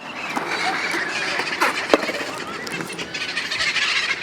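A flock of parrots calling, many birds at once, with a single knock about two seconds in.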